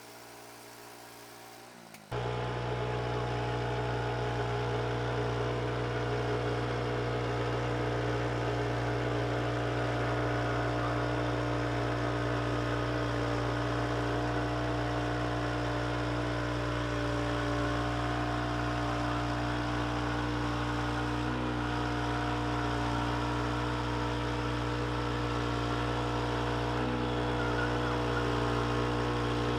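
An engine running steadily at a constant speed with a deep, even hum. It cuts in suddenly about two seconds in.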